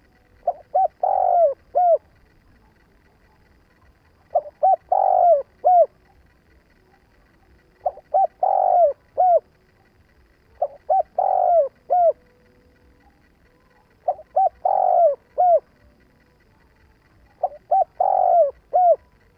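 Spotted dove cooing its song: six phrases in a row, each a few short coos leading into a longer, louder one, repeated every three seconds or so.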